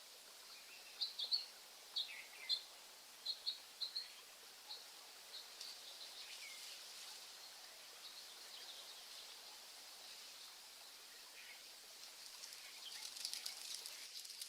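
Birds chirping in short, sharp high notes, a quick run of them in the first few seconds, over a steady high hiss of outdoor nature ambience that grows denser near the end.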